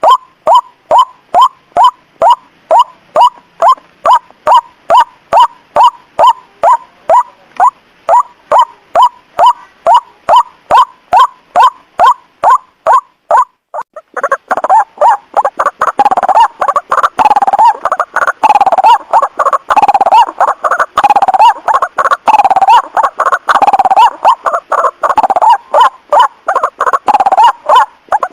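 White-breasted waterhen calls: a regular series of short notes, about three a second, then after a brief break about halfway a louder, denser run of overlapping calls. A recorded lure call used to attract the bird.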